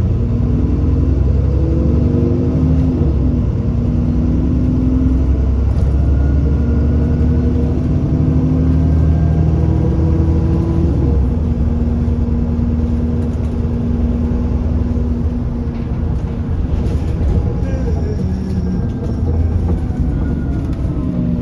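Alexander Dennis Enviro400 Trident double-decker bus running under way, heard from on board: a steady low engine rumble whose pitch climbs and then drops in steps several times as the automatic gearbox changes gear.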